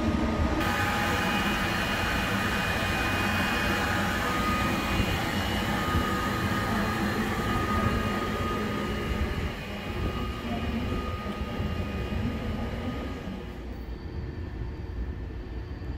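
Deutsche Bahn ICE high-speed train running out along the platform: a steady rumble of wheels on rail with a faint whine. It fades about 13 s in as the last car clears.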